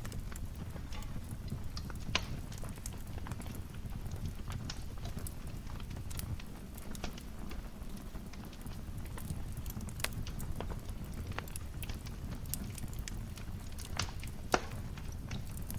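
Wood fire crackling in a fireplace: a steady low rumble of flames with scattered sharp pops and snaps, one louder pop near the end.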